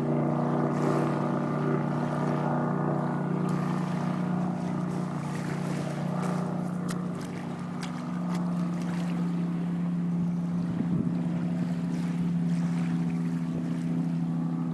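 Hallett 240 boat's engine running steadily at a constant low speed, the note holding one pitch with a slight shift about eight seconds in.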